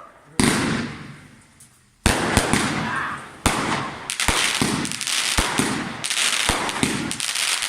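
Fireworks going off: a loud bang with a fading echo, another about two seconds in, then from about three and a half seconds a rapid, continuous string of bangs and crackles.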